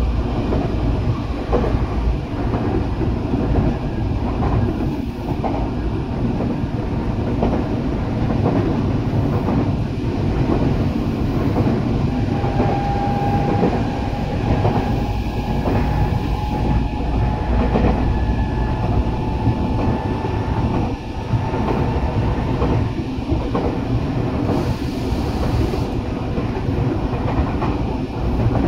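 Teito Rapid Transit Authority (Tokyo Metro) 8000 series electric train running steadily, with a continuous wheel-on-rail rumble and the clickety-clack of rail joints. A faint whine comes in for several seconds about midway.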